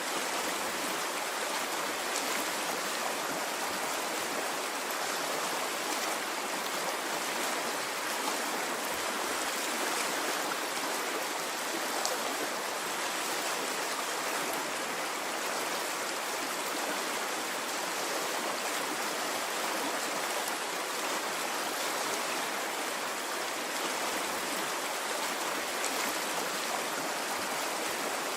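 Water stream flowing steadily, an even rushing and babbling with no swells.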